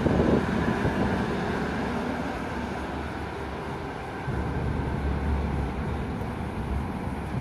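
Tangara electric train standing at a station platform with its equipment running, a steady noisy hum; a low rumble comes in about four seconds in and fades near the end.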